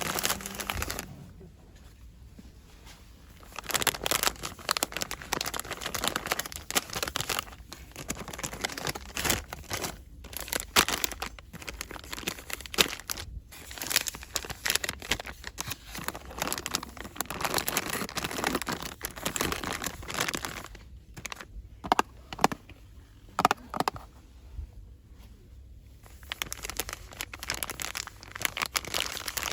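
Packaging crinkled and rustled by hand in fast, irregular bursts, with short pauses and a few sharp clicks about three quarters of the way through.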